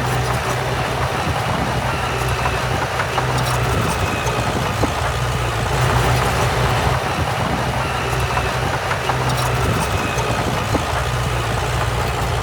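Heavy diesel earthmoving machinery running steadily at the work site, a constant low engine drone under a broad mechanical rumble, with short faint high squeals every few seconds.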